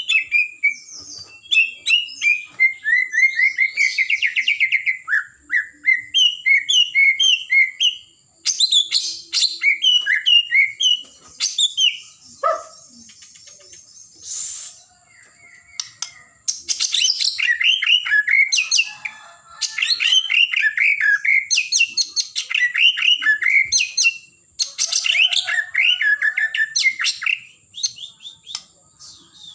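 White-rumped shama (murai batu) singing in long, rapidly varied phrases of rich whistles and quick chirps, broken by short pauses between bursts.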